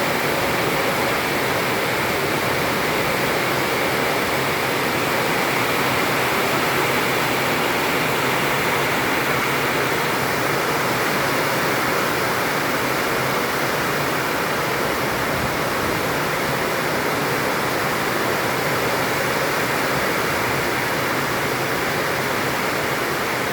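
Heavy tropical rain pouring down in a steady, dense rush.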